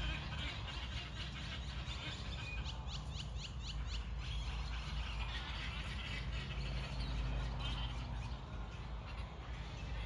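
Birds calling, with a quick run of short chirps about three seconds in, over a steady low rumble.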